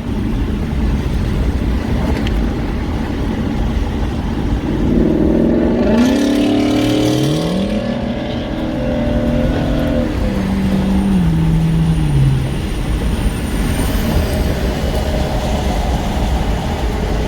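A 2016 Ford Mustang GT's 5.0 V8, with straight pipes, X-pipe and resonator delete, accelerating hard at highway speed over steady road and wind noise. About five seconds in, the exhaust note climbs in pitch and holds, then drops in steps and fades by about twelve seconds in.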